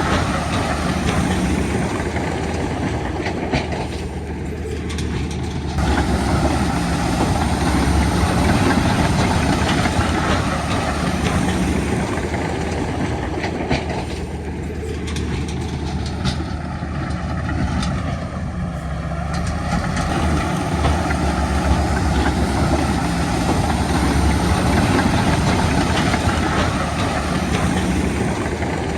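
Crawler bulldozer working: its heavy diesel engine runs steadily under load while the steel tracks clank and squeal. The rattling thins out for a few seconds twice, about four seconds in and again around the middle.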